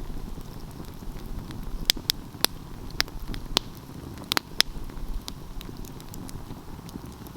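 Wood fire burning with a low steady rumble and irregular sharp crackles and pops, several close together about two seconds in and again a little past four seconds.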